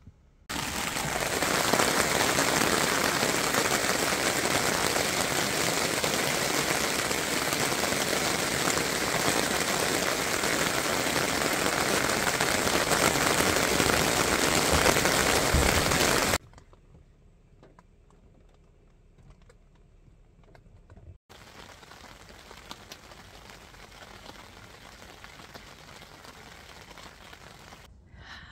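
Steady rain drumming on a fabric canopy overhead: a dense, even hiss that starts about half a second in and cuts off abruptly about sixteen seconds in. After that only a much fainter, steady rain hiss remains.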